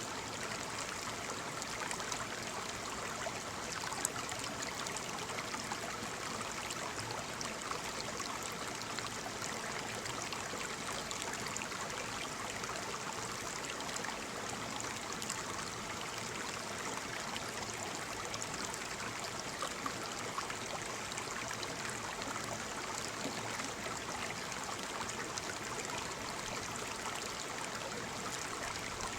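Waterfall: a steady rush of falling water, with a few small splashes standing out now and then.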